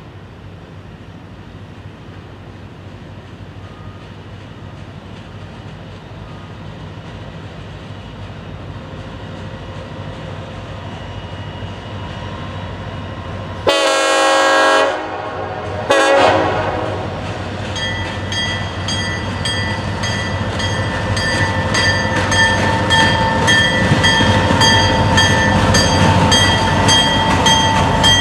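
Diesel freight train approaching, its rumble growing steadily louder; the locomotive's horn sounds one long blast about halfway through and a shorter one just after. From then on a bell rings rapidly and evenly over the rising rumble of the engines and wheels.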